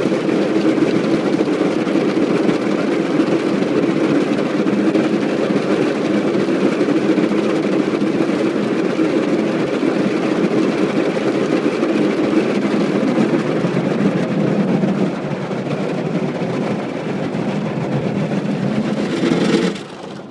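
Automatic car wash machinery running over a car: a loud, steady rushing noise that eases a little about three quarters of the way through and cuts off sharply near the end.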